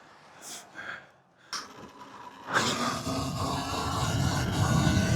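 A few heavy breaths, then about two and a half seconds in the dirt bike's running noise comes in and grows steadily louder as the bike gets under way.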